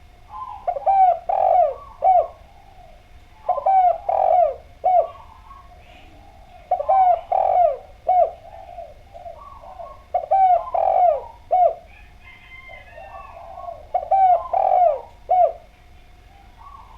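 Spotted dove (derkuku) cooing: five phrases of several low, falling coo notes, one about every three seconds.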